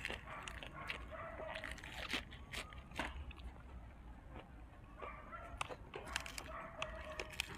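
Close-up crunching and chewing of fried dried squid wrapped in fresh lettuce, with sharp crisp crunches throughout. A thin, held, whine-like tone sounds faintly a few times in the background.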